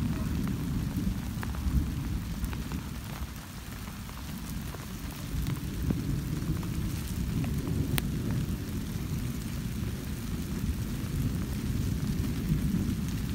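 Storm wind rushing over the microphone: a steady, fluctuating low rumble, with a few faint ticks.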